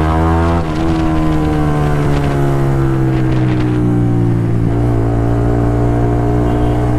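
Single-cylinder motorcycle engine running under way, with a short dip about half a second in, then the engine note sinking slowly as the revs ease off.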